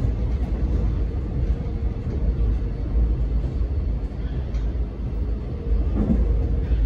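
Alstom X'Trapolis electric multiple unit running along the line, heard from inside the carriage: a steady low rumble of wheels on rails with a faint steady tone above it.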